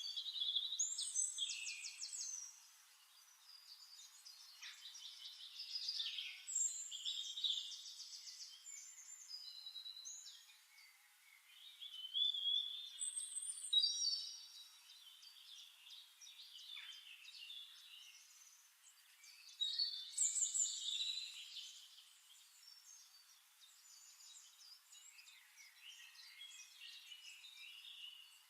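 Songbirds singing: rapid chirps, trills and quick gliding whistles, in about four louder song phrases with softer chirping in between.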